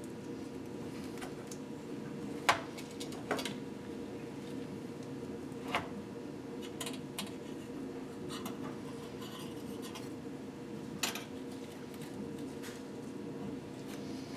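Metal parts clinking and tapping as pistons and piston rings are handled: a few sharp clicks, the loudest about two and a half seconds in, over a steady low hum.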